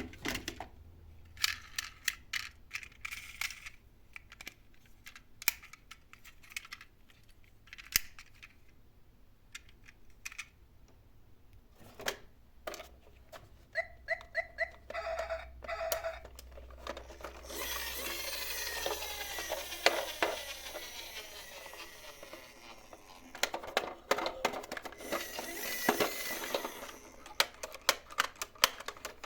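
Small die-cast toy cars clicking and knocking as they are handled. There are two longer stretches of rattling, one from about 17 to 23 seconds in and a shorter one around 25 seconds, as a toy car runs down a slope.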